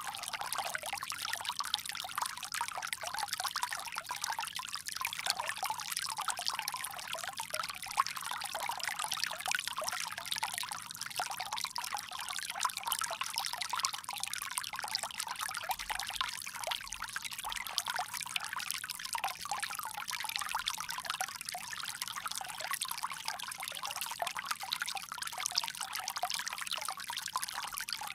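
Water pouring steadily from a bamboo spout, a continuous splashing trickle with no breaks.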